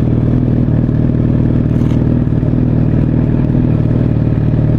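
Motorcycle engine running at a steady idle or low speed, loud and close, with a low, even hum.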